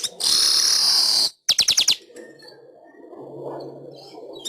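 Weaver bird (manyar) song: a loud buzzy wheeze lasting about a second, then a quick run of about five sharp chips, followed by softer chattering.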